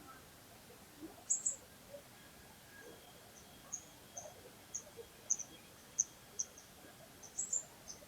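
Birds chirping: about a dozen short, high notes scattered irregularly, the loudest in a quick pair about a second and a half in and again near the end. Underneath, a faint, soft trickle of a flowing stream.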